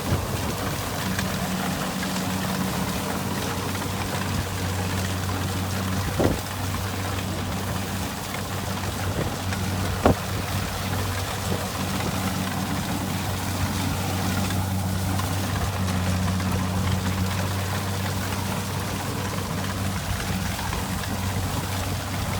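Kubota rice combine harvester running steadily with a continuous low engine drone, with two sharp knocks about six and ten seconds in.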